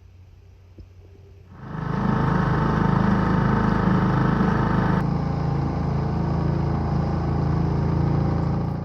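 Boat's outboard motor running steadily under way. It comes in suddenly about a second and a half in and stops abruptly at the end.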